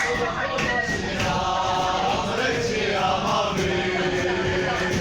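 A group of football supporters chanting a song together in unison, their voices held and sustained, in the confined space of an airliner cabin.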